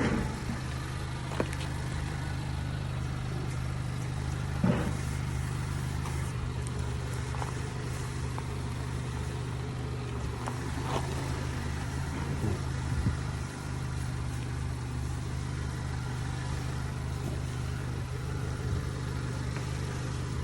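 Engine idling steadily with a low hum, with a few brief knocks.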